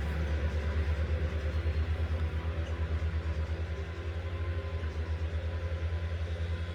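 A large engine running steadily, a low rumble with a fast, even throb.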